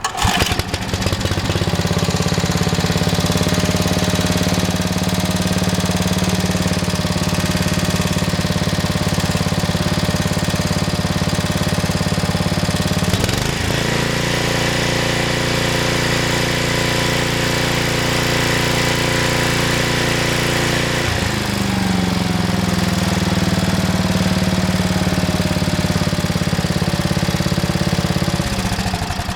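Briggs & Stratton 8 HP Industrial Plus single-cylinder engine on a tiller catching on a pull start and running steadily. About halfway it is throttled up to a higher speed for several seconds, then drops back to its lower speed. It is shut off at the end.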